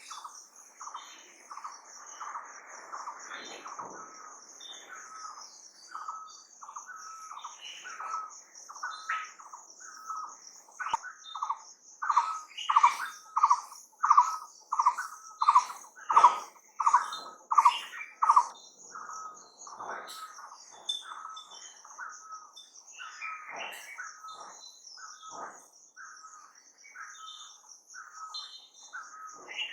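Wild bird repeating a short call about twice a second, louder for several seconds in the middle, with other birds chirping now and then. A steady, high insect trill runs underneath.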